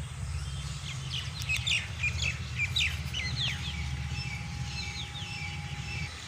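Birds chirping in quick, sliding calls, busiest from about one to five seconds in, over a steady low rumble.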